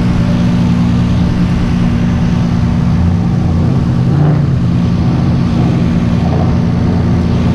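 Car engine running at a steady speed, holding one low, even note with no revving.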